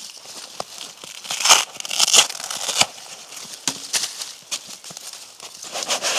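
Irregular crinkling and rustling, like something light being handled or crumpled, with a few louder bursts about a second and a half, two, three and six seconds in.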